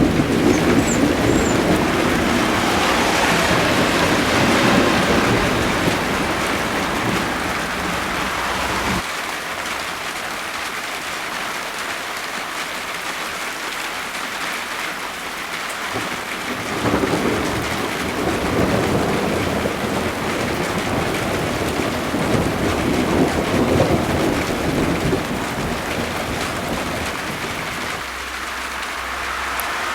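Thunder rumbling in two long rolls over a steady hiss of rain: one roll dies away about a third of the way in, and a second builds at about halfway and fades near the end.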